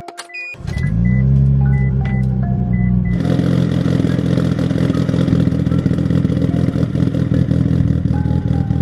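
Car engine starting, its pitch rising and settling into a steady run; from about three seconds in it grows louder and rougher.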